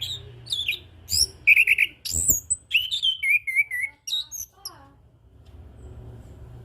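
Chestnut-capped thrush (anis kembang) singing a fast, varied run of whistled notes, chirps and short trills that stops about five seconds in.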